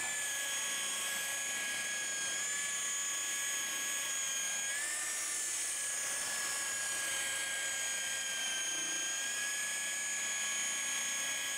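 Electric buffer with a wool pad running steadily while polishing the textured plastic of a windshield wiper arm, a high motor whine that rises briefly in pitch about five seconds in and sags a little later on.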